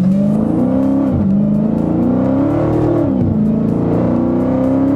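Dodge Hellcat's supercharged 6.2-litre V8 with its mid-muffler deleted, heard from inside the cabin under full-throttle acceleration. The engine pitch climbs, drops at an upshift about a second in, climbs again, drops at a second upshift about three seconds in, then rises steadily.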